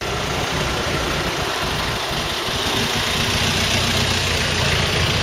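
Car engine idling with a low steady rumble, under a constant haze of street traffic noise.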